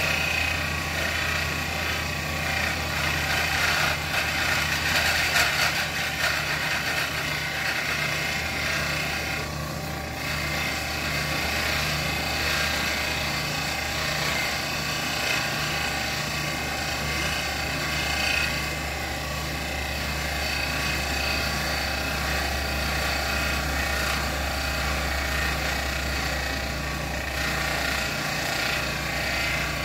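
A motorized machine running steadily, with a low hum and a regular throb.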